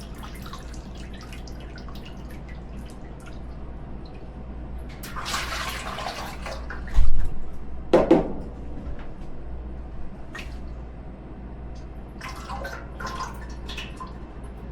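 Fryer oil pouring and dripping out of a deep fryer's drain into a bucket as the fryer is flushed with clean oil to wash out the old oil and debris. A steady low hum runs underneath, with a loud thump about seven seconds in and a clunk a second later.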